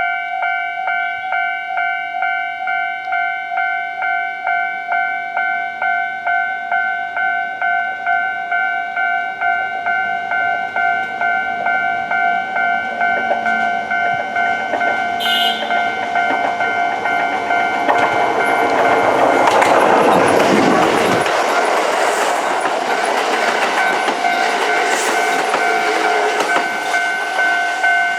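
Japanese level-crossing alarm bell ringing steadily, about one and a half strokes a second. A Kintetsu 30000 series Vista EX limited express sounds its electric horn briefly, then runs over the crossing with wheel clatter and rushing noise that builds, peaks and fades as it passes.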